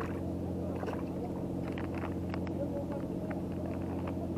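Boat engine running at idle, a steady low hum, with a few light clicks and taps over it.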